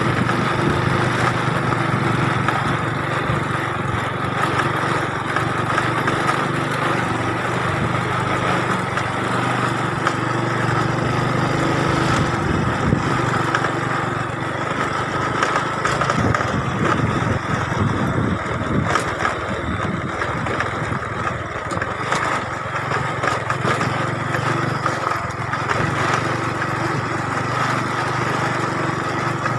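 A small petrol engine running steadily, holding an even pitch with a steady whine above it.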